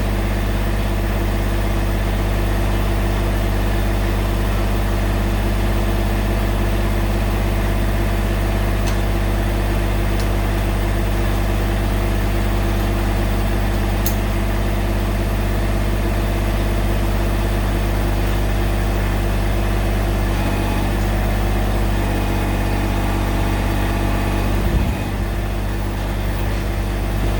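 Massey Ferguson GC1700-series subcompact tractor's three-cylinder diesel engine idling steadily, with a brief change in the engine note near the end.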